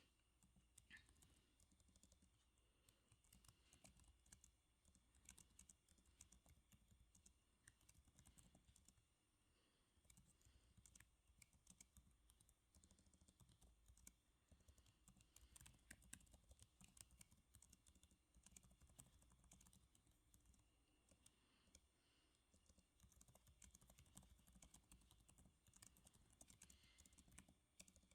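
Typing on a computer keyboard: a faint, irregular run of key clicks, with a short pause about a third of the way in.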